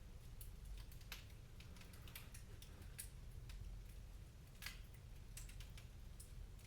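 Wood fire crackling in a fireplace: faint, irregular sharp snaps and pops over a steady low rumble.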